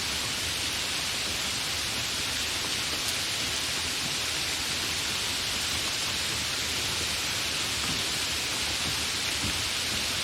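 Steady, fairly heavy rain falling without thunder: an even, unbroken hiss of many drops.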